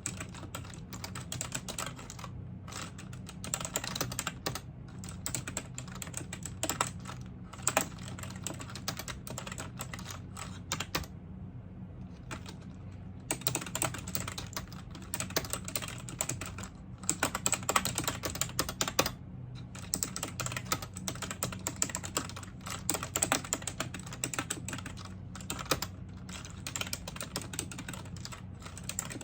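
Typing on a computer keyboard: a fast, irregular run of key clicks that pauses for about two seconds near the middle, over a low steady hum.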